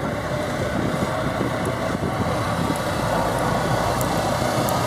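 A car moving slowly: engine running with road and wind noise, growing slightly louder.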